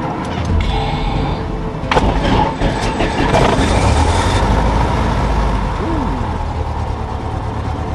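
Cessna 172N's four-cylinder Lycoming O-320 engine starting cold after priming. It catches about two seconds in, runs loud for a couple of seconds, then settles into a steady idle.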